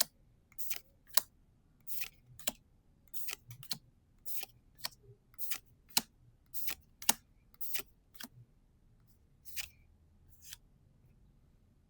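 Trading cards being slid off a stack one at a time, a short crisp swish of card against card roughly twice a second, stopping about ten and a half seconds in.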